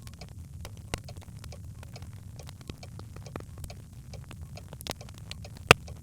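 Birchwood fire crackling in a fireplace: scattered sharp pops and ticks over a low steady rumble of the flames, with one loud pop near the end.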